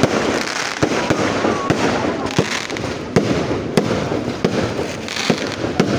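Fireworks going off continuously: a dense crackling with frequent sharp bangs at irregular intervals.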